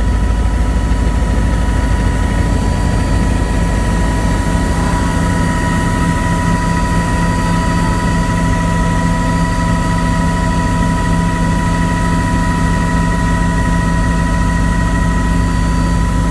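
Helicopter's turbine engine and rotor running steadily in flight, heard from on board: a steady whine over a constant low rotor beat.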